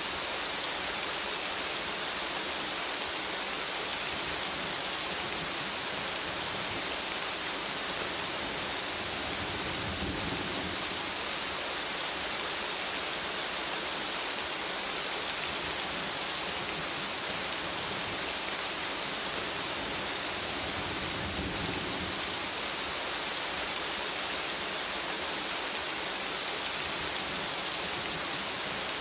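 Steady rain falling on forest foliage, an even hiss. Two soft low rumbles come and go, about a third and about three-quarters of the way through.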